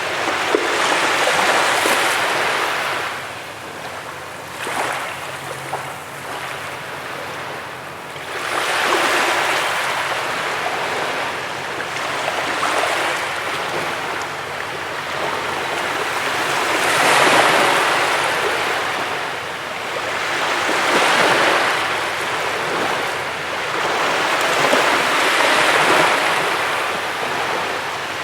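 Ocean surf breaking on a beach: a rushing wash of waves that swells and ebbs every few seconds.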